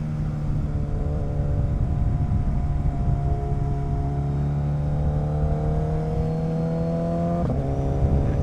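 Motorcycle engine pulling steadily under way, with wind rumble on the microphone. Its note rises slowly, then drops back with a brief break about seven and a half seconds in, like a gear change.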